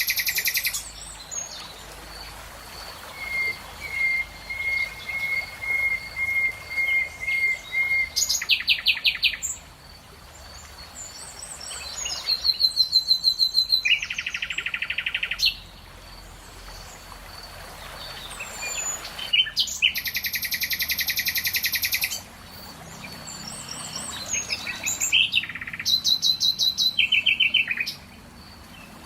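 Several songbirds singing, with loud buzzy rapid trills coming back every few seconds and a run of short, evenly spaced notes about two a second early on. A faint high note repeats steadily under the songs.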